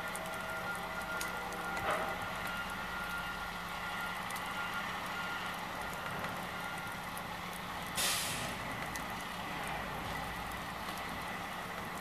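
Heavy truck engine running steadily. There is a short knock about two seconds in, and a brief burst of air-brake hiss about eight seconds in.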